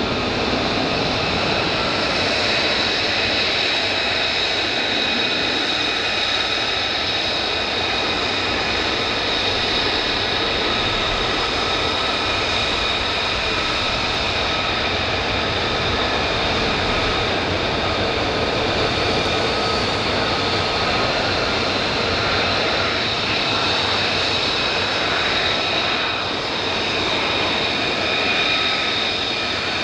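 Fighter jet engine running steadily: a constant roar with a high, steady whine over it and no build-up or fade.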